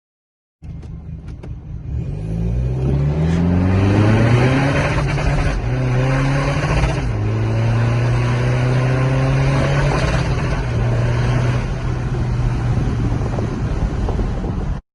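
BMW F30 320d's tuned (Stage 1+) four-cylinder turbodiesel accelerating under load, its note climbing and then stepping down at gear changes with a rumble between shifts.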